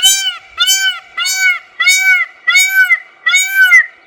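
Indian peafowl (peacock) calling a loud, rapid series of about six short calls, each rising and falling in pitch, the series stopping near the end.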